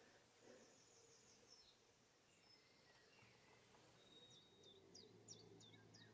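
Near silence: faint room tone with distant birds chirping, a short high trill about a second in and a run of quick, high, down-sliding chirps in the second half.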